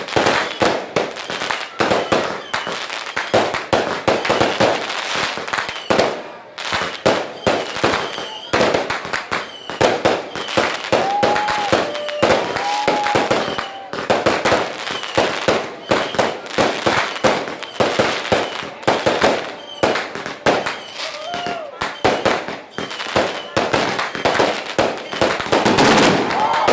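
Fireworks going off in a dense, continuous barrage of rapid bangs and crackling pops, with voices of onlookers heard among them.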